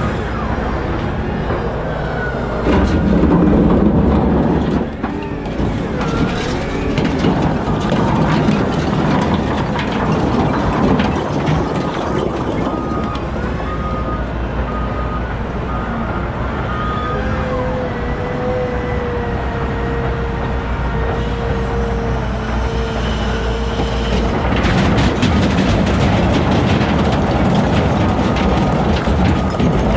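A heavy wheel loader's diesel engine working under load with trucks being loaded, a continuous heavy machinery din. A steady whine holds for several seconds about two-thirds of the way through, a repeating beep sounds twice, and it grows louder near the end.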